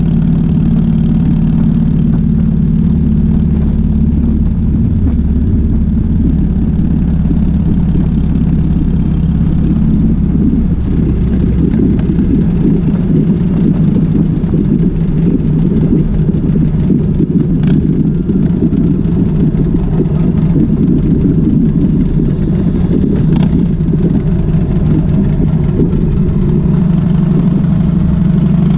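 2005 Harley-Davidson Softail Springer Classic's air-cooled V-twin engine running steadily, turning rougher and more uneven through the middle and steadying again near the end.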